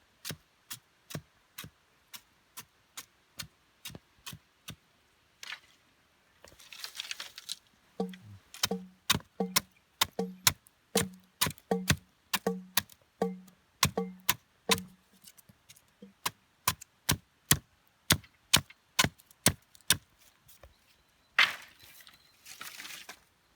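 Rhythmic percussion: sharp wooden knocks at a steady beat of about two and a half a second. For several seconds in the middle a low pitched tone sounds with each knock, and short rushing swells come twice.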